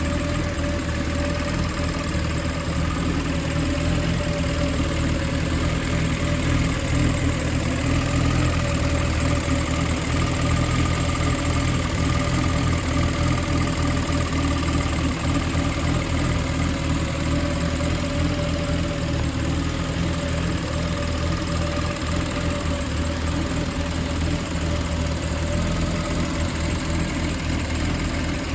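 Toyota 1FZ-FE 24-valve inline-six idling steadily just after a cold start.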